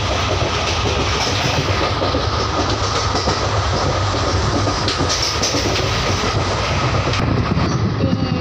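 Passenger train running along the track, heard from an open coach doorway: a steady, loud rumble of wheels on rail with a few clicks, changing near the end as the train enters a tunnel.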